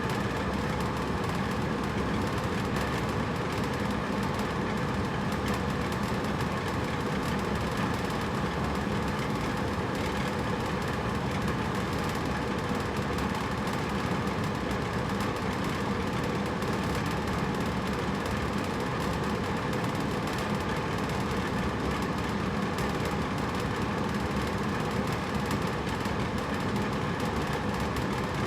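Hotel room air conditioner running steadily: an even whooshing hum with a faint low drone, no change in level.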